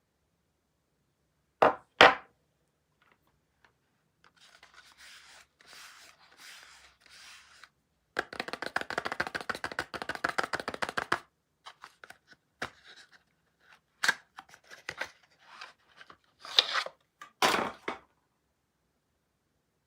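Soap bars and their packaging being handled and unwrapped. Two sharp knocks come near the start, then a light rustle, then about three seconds of fast crackling scratching, then scattered taps with two louder knocks near the end.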